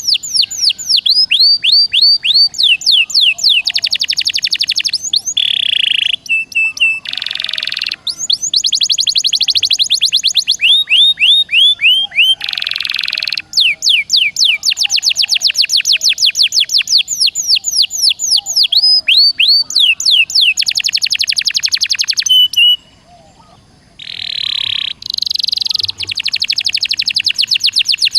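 Songbirds singing fast, tightly packed trills of repeated downward-sweeping high notes, about ten a second, broken every few seconds by short harsh buzzy notes. The song is a mix of icterine warbler, sikatan londo and canary.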